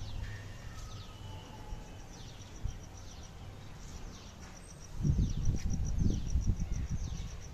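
Outdoor garden ambience: birds calling with repeated falling notes, and an insect chirping in an even train of about five chirps a second. Low rumbling bursts come in about five seconds in.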